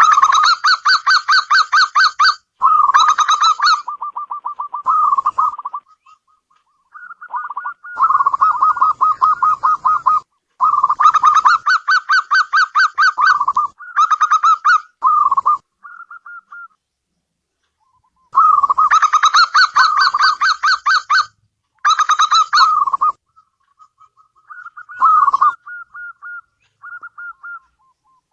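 Zebra dove (perkutut) singing: repeated phrases of rapid staccato cooing notes, each phrase a few seconds long, with short pauses and softer trailing coos between them.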